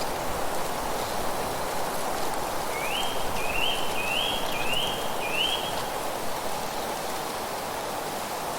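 Steady rushing of wind through rustling leaves, with a bird singing a phrase of five short upslurred notes about three seconds in.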